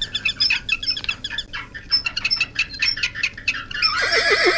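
Bird calls: a quick run of short, high chirps and whistles over a low, steady background hum. About four seconds in, a horse whinnies.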